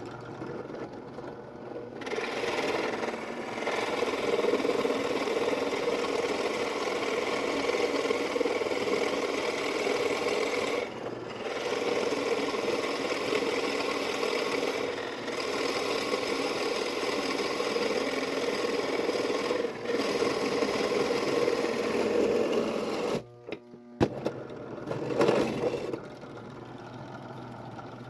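An electric woodworking machine running steadily as it works wood, with short dips in its sound a few times. It stops for a moment, with a few knocks, about three-quarters of the way through, then starts again and runs more quietly.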